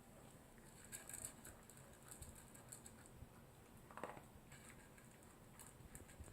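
Toy poodle eating dry kibble: faint, irregular crunches and clicks of chewing and of its mouth at the bowl.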